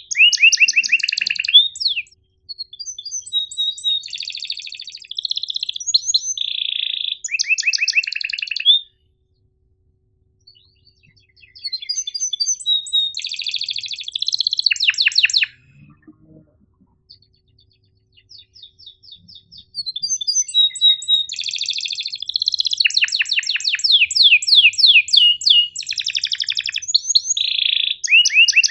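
Domestic canary singing a long, high song of fast rolling trills and sharp chirps, in phrases broken by two pauses of a couple of seconds near the middle.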